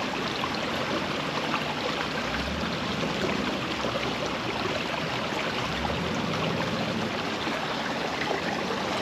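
Creek water running steadily over rocks in a riffle, a continuous rushing hiss.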